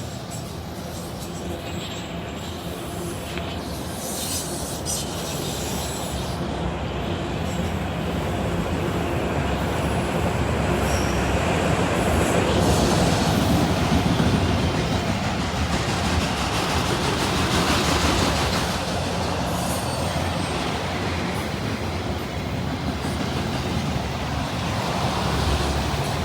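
CSX freight train's cars rolling past, wheels clicking over the rail joints with occasional high wheel squeal, growing louder toward the middle and staying strong.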